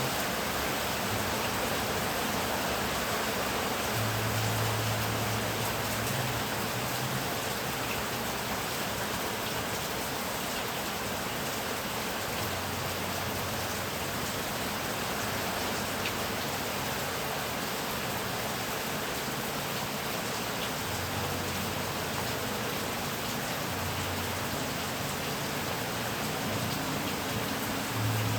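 Heavy rain falling as a steady, even hiss, with a low rumble of thunder coming and going several times.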